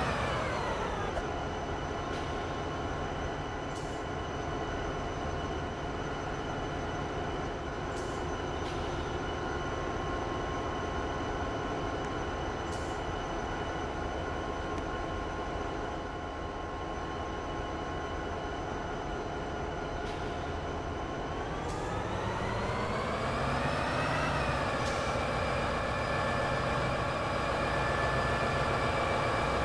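Train running, its motor tone falling in pitch at the start, holding steady, then rising again about three quarters of the way through as it picks up speed, over a steady rumble.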